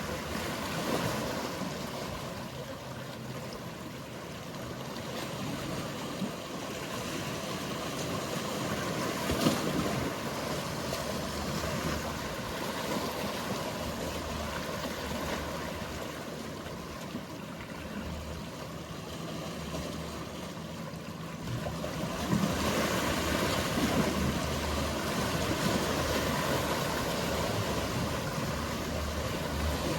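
Mediterranean sea waves washing continuously, with the low steady hum of boat engines underneath. The wash swells briefly about a third of the way in and grows louder again for the last third.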